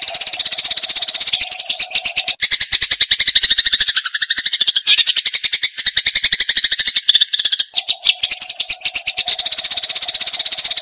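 Eurasian tree sparrow in aggressive, fighting mode, giving a rapid, unbroken chatter of short harsh chirps; for several seconds in the middle the chatter drops lower in pitch, then rises again.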